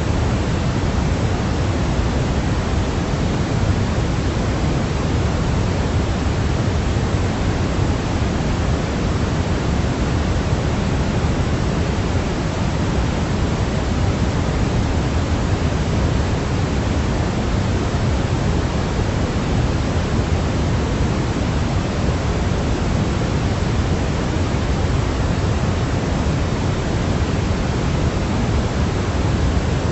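Steady baby-sleep noise, an even, unbroken hiss weighted toward the deep end, so it sounds more like a soft rush than a bright white-noise hiss. It does not change.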